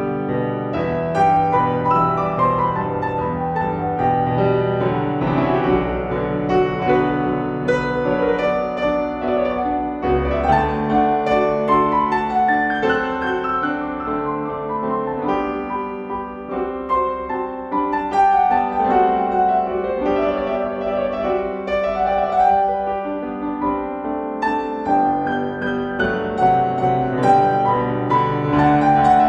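Solo piano music in a classical style, with running arpeggios over held bass notes.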